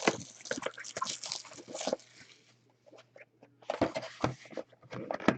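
A sealed box of trading cards being opened by hand: crinkling and rustling of its plastic wrap and cardboard, in two spells with a short pause between.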